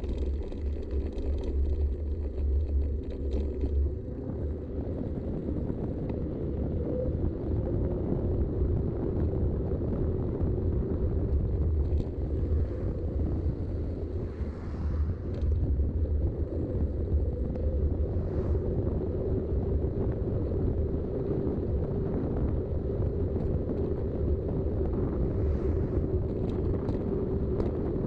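Steady wind and rolling-tyre rumble from riding a mountain bike on Schwalbe tyres, picked up by the rider's action camera, with a few faint rattles.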